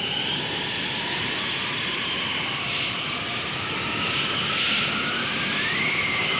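Wind blowing steadily: a rushing noise with thin whistling tones that slowly drift in pitch, one rising near the end.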